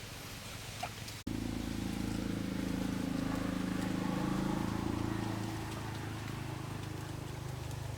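Chainsaw engine idling steadily with an even pulsing note, coming in abruptly and louder about a second in.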